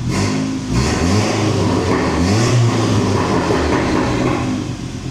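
Volkswagen Mk7 GTI's turbocharged four-cylinder engine revved several times from idle, its pitch rising and falling with each blip before settling back to idle, breathing through a large 4.5-inch downpipe. It is loud.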